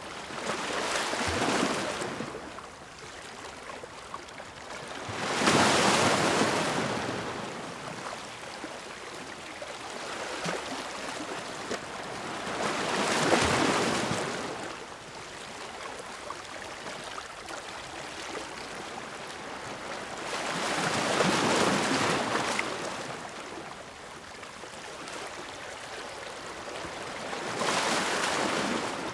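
Sea waves breaking against rocks: five surges of rushing water, each swelling and falling away over a few seconds, with a steady wash between them.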